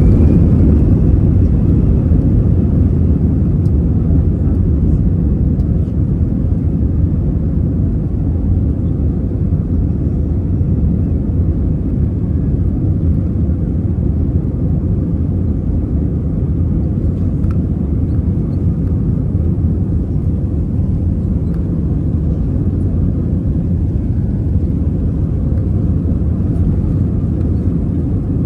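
Airbus A320-215 cabin during takeoff: a loud, steady rumble of the jet engines at high thrust mixed with rushing air, heard from a seat behind the wing. It is loudest in the first couple of seconds, then eases off slightly.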